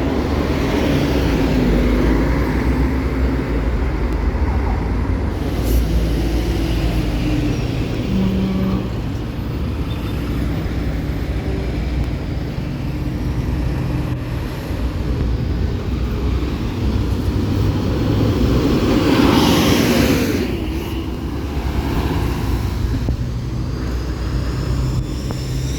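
Road traffic on a busy city avenue: steady low engine rumble of heavy vehicles, with one vehicle passing close and loud about twenty seconds in.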